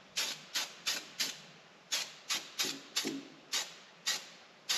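Short hissing strokes, two to three a second with a brief pause after the first second, from cleaning a metal part of the skid steer's attachment mount.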